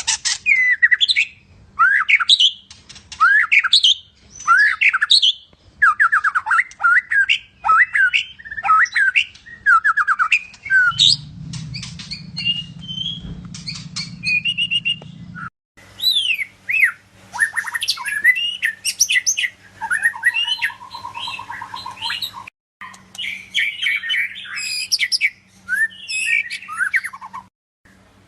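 White-rumped shama (murai batu of the Medan type) singing a long, varied song of loud whistles, rapid trills and chattering phrases, broken by short pauses.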